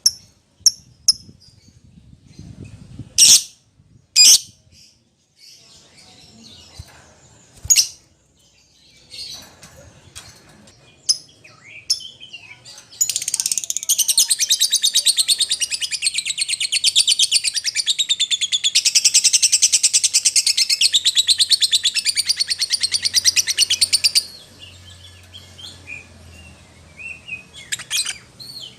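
Lovebird calling: sharp, separate shrill chirps, then about thirteen seconds in a long, rapid, continuous chattering trill lasting around eleven seconds, then scattered chirps again.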